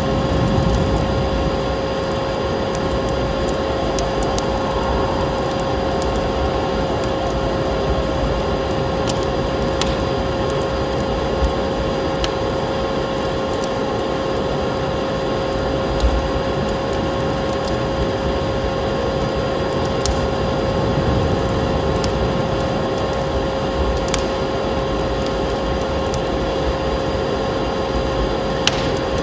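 Wood fire crackling in a fireplace: a steady rushing bed with scattered sharp pops every few seconds, over a constant faint hum.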